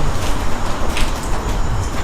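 Turbocharged 2ZZ-GTE four-cylinder engine in a Toyota MR2 Spyder running at idle, a steady low rumble through its loud exhaust.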